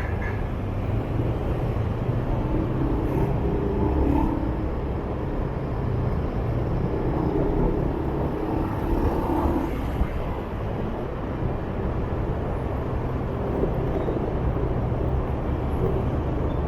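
Motorbike riding through city traffic: steady engine and road noise.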